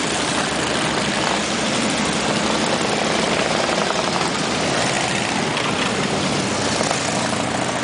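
Many motorcycles riding past in a continuous procession, their engines blending into a steady, loud drone.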